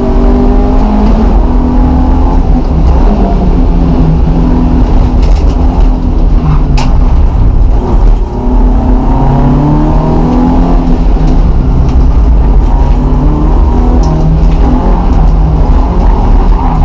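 BMW E30 318is's 1.8-litre four-cylinder engine heard from inside the cabin, driven hard on a track. Its pitch climbs under full throttle and drops at gear changes, over heavy road rumble. There is one sharp click about seven seconds in, and the noise briefly dips just after.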